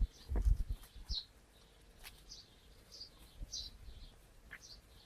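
Short high chirps repeating about twice a second, like a small bird calling, with a few dull low thumps in the first second.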